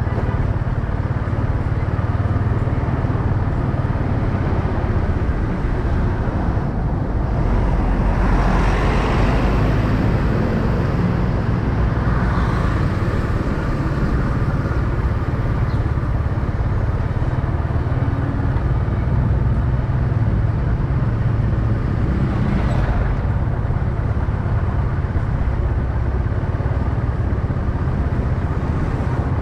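Motorcycle engine running steadily under way, with road and wind noise and surrounding street traffic. A louder rush of noise comes about eight seconds in and again briefly past the twenty-second mark.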